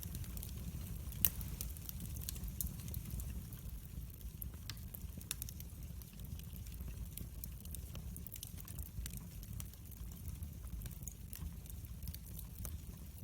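Wood fire burning in a fireplace: a steady low rumble of flames with scattered sharp crackles and pops, one louder pop about a second in.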